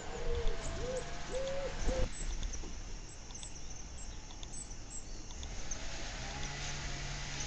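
Pigeon cooing: a run of short, arched coos about every half second, which cuts off abruptly about two seconds in, leaving only faint outdoor background.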